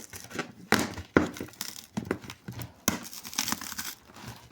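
Cardboard box packaging being torn and worked off a styrofoam insert by hand, in irregular bursts of tearing and crinkling.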